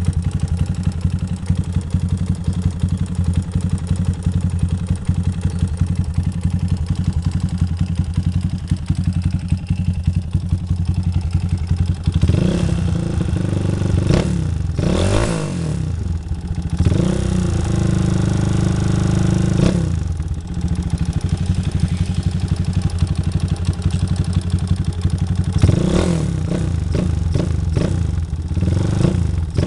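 Motorcycle engine through an aftermarket racing exhaust, idling steadily, then revved: a few short throttle blips, one rev held for about three seconds, and more quick blips near the end.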